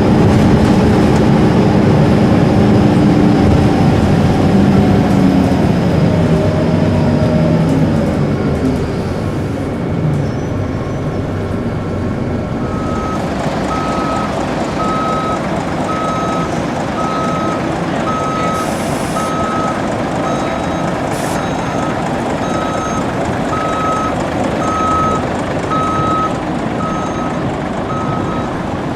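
A bus engine running and pulling away, its pitch sinking as it moves off and fades. Then a high electronic beep repeats at a steady pace of about one and a half pips a second, over steady traffic noise.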